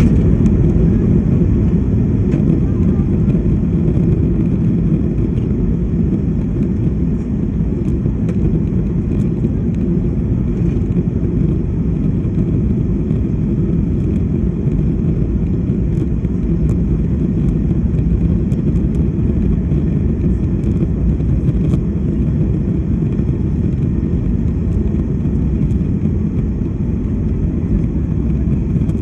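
Steady low rumble of a passenger aircraft's engines and airflow, as heard inside the cabin during the climb after take-off.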